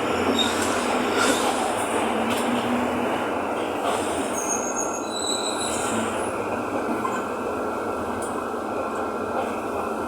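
Mercedes-Benz OF-1519 bus running, heard from inside the cabin: a steady mix of engine and road noise with body rattle. A few short high squeaks come about halfway through.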